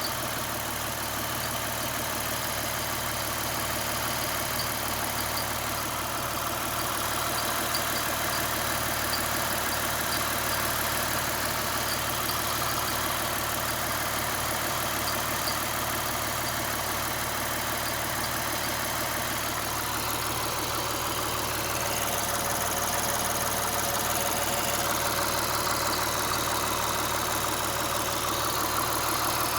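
2009 Lexus IS 350's 3.5-litre V6 idling steadily, with a high chirping tick repeating from the serpentine belt drive. The chirp comes from a worn serpentine belt; replacing the belt cured it.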